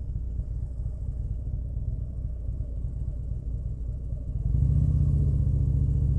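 Motorcycle engine running with a steady low rumble, growing louder about four and a half seconds in.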